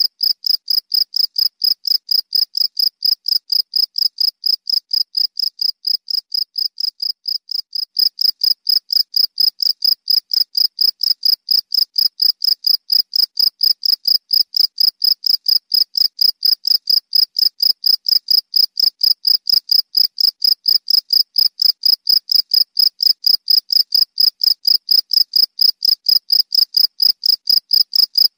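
Cricket chirping in a steady run of rapid, evenly spaced, high-pitched chirps. It gets slightly louder about eight seconds in.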